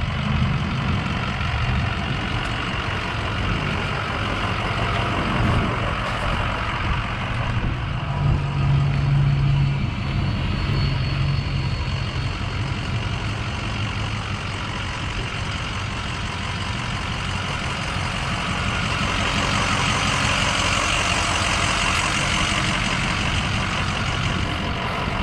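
Lifted Ford F-350 diesel pickup's engine running steadily, a deep low note swelling about eight seconds in, with a rising hiss joining from about nineteen seconds.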